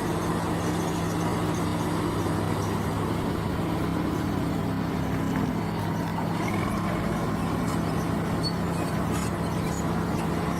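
Bulldozer's diesel engine running steadily under load, with a constant low drone.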